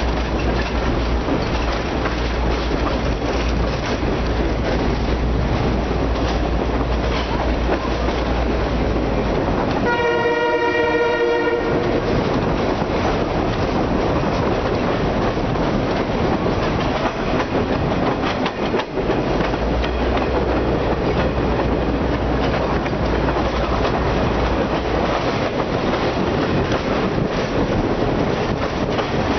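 A train running steadily along the track, heard from an open passenger car, with wheels clacking over the rails. About ten seconds in, the train horn sounds once for about two seconds.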